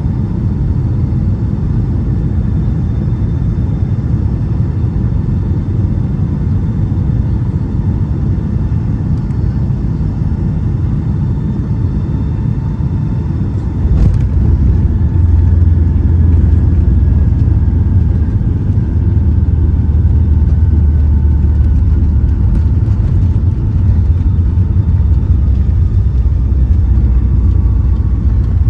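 Boeing 757-200 cabin noise: a steady low rumble, then about halfway through a sudden jolt after which the rumble turns louder and deeper, with a faint whine slowly falling in pitch. This fits the main wheels touching down on the runway and the jet slowing on its rollout.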